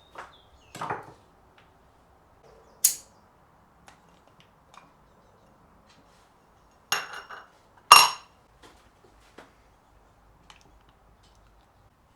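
Scattered clinks and knocks of hard objects being handled, a few sharp ones with a short metallic ring, the loudest two about seven and eight seconds in.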